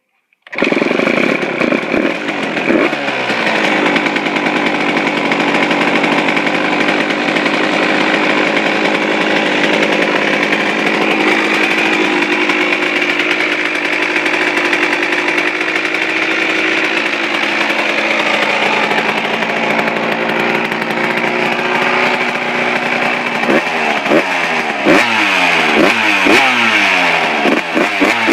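Suzuki RM125 125cc single-cylinder two-stroke dirt bike engine firing on its first start after a complete rebuild, catching half a second in and running at a fast, steady idle from cold. In the last five seconds the engine speed swings up and down repeatedly.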